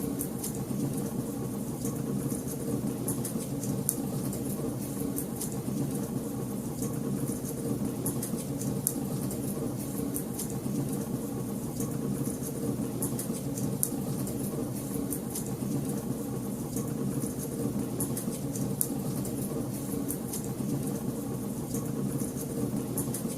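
Wood fire crackling, with frequent small sharp pops and snaps over a steady low rumble of the flames.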